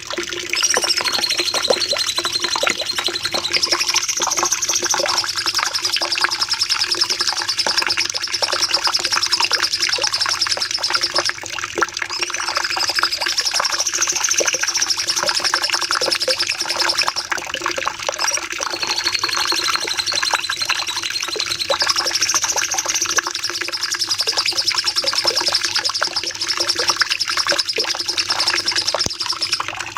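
Cucak cungkok songbird singing long, rapid volleys of chattering notes in a dense, unbroken stream, with a high wavering trill that comes and goes every few seconds.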